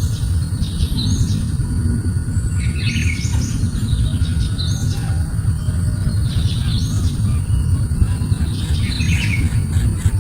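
Birds chirping in short clusters of high calls every second or two, over a steady low rumble and a thin steady high tone.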